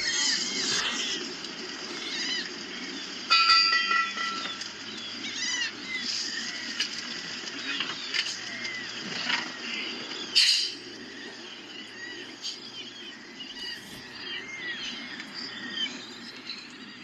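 Many nesting birds calling over and over in short rising-and-falling cries, over a steady low rumble. About three seconds in, a loud held tone lasts about a second.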